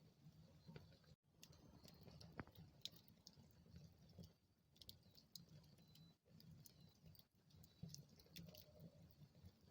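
Wood fire in a fireplace crackling faintly, with scattered small snaps and pops of burning wood.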